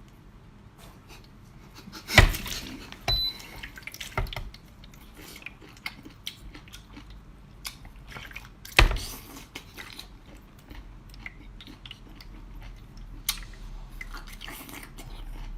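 Wet eating and handling noises from seafood: scattered clicks, drips and squelches, with two sharper knocks.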